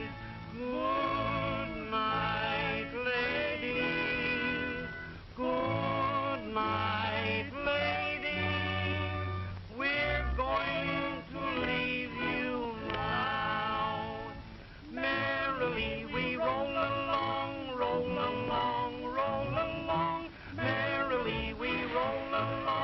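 Voices singing together in close harmony over a musical accompaniment, the sung notes wavering with a strong vibrato in phrases of a few seconds each.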